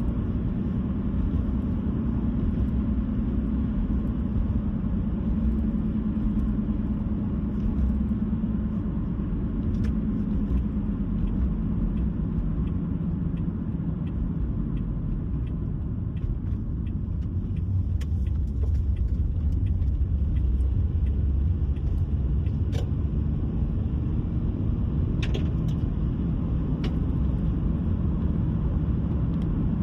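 Car driving at a steady pace: a continuous low rumble of engine and tyre noise on the road, with a few faint ticks.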